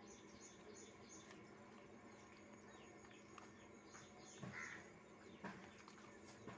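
Near silence with faint small-bird chirps, and two brief louder sounds about four and a half and five and a half seconds in.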